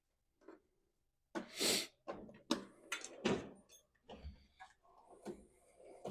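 Irregular knocks, clunks and clicks of tools and engine parts being handled, with one short rushing burst about a second and a half in.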